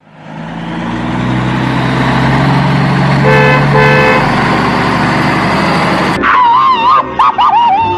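A motor vehicle's engine running steadily, with two short horn toots a little over three seconds in. From about six seconds a wavering, warbling high tone takes over.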